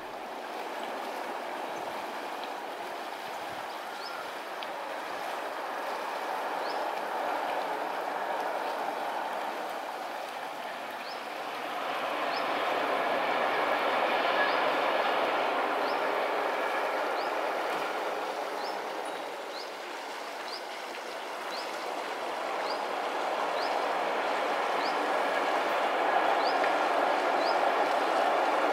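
Distant rumble of an ÖBB Taurus electric locomotive and its works train running over a viaduct: a steady rushing noise that swells about twelve seconds in and again near the end. A faint short high chirp repeats about once a second over it.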